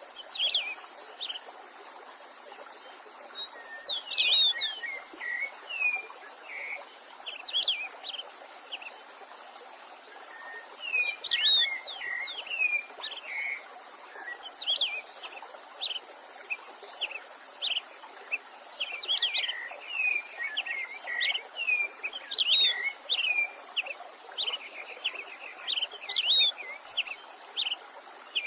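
Small songbirds chirping and calling in quick, sweeping notes, thinning out for a few seconds early on, over the steady rush of a stream.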